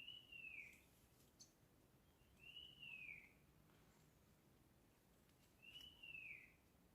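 A bird calling: a single note that rises and then falls in an arch, repeated three times about three seconds apart, with a few faint high clicks after the first call.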